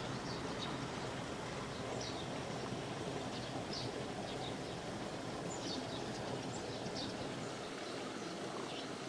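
Small birds chirping now and then over a steady low rushing background noise.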